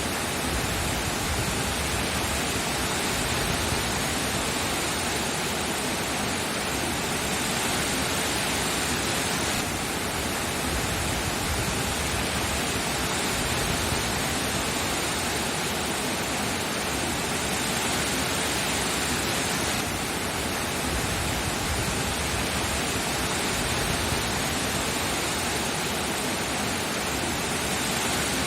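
Steady heavy rain, an even rushing hiss without distinct drops or changes.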